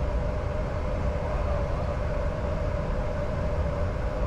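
Steady flight-deck noise of a Bombardier Challenger 605 jet in flight: a constant low rumble of airflow and engines with a steady hum.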